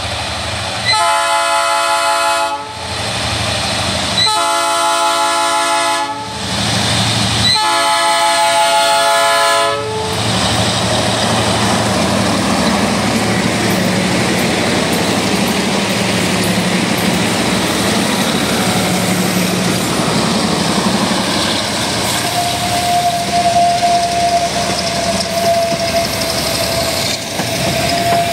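Diesel freight locomotive's multi-tone air horn sounding three long blasts for a level crossing. The locomotives then pass under power and the freight wagons roll by, with steady rumbling and clacking of wheels on the rails; a steady high squeal joins in a little past three quarters of the way through.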